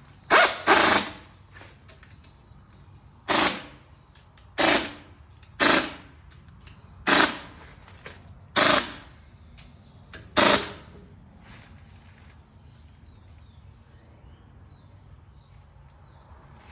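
Impact wrench firing in short hammering bursts, eight in about eleven seconds, run up on bolts during reassembly.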